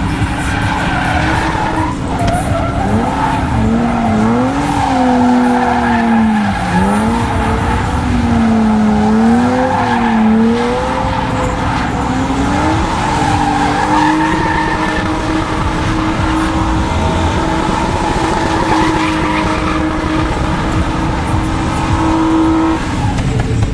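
BMW E36's inline-six engine revving up and down hard while the car drifts, with tyres skidding. About halfway through the revs settle and hold steady until near the end.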